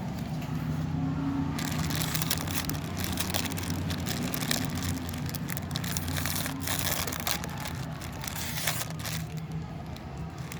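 Crinkling plastic and small clicks of Lego pieces and packaging being handled, starting about a second and a half in, over a steady low hum.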